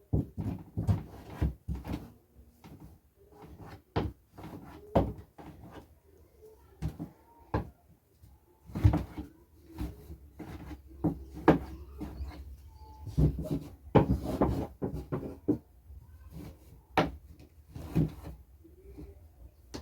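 Irregular knocks and thumps with rustling as a bed is made, sheets pulled straight and tucked in.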